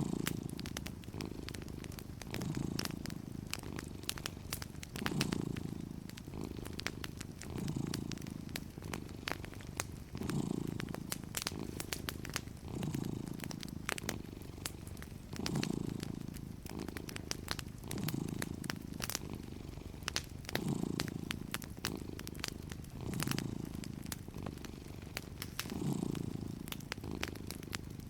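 A domestic cat purring steadily, swelling and fading with each slow breath about every two and a half seconds, over the scattered sharp crackles and pops of a wood fire in a fireplace.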